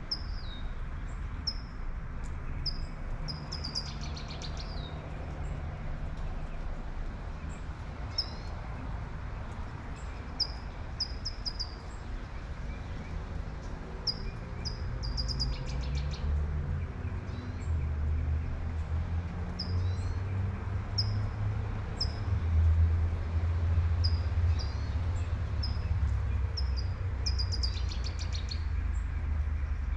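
Songbirds chirping: repeated short, high notes and a few rapid trills, over the steady hiss of light rain. About halfway through, a low rumble of a passing car builds, is loudest a little past two-thirds of the way, and eases off.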